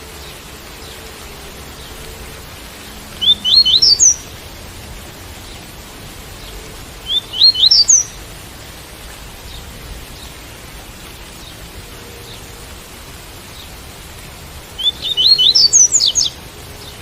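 Double-collared seedeater (coleiro) singing the tui-tui song: three short phrases of quick notes climbing in pitch, the last one the longest. Under it runs a steady hiss of rain.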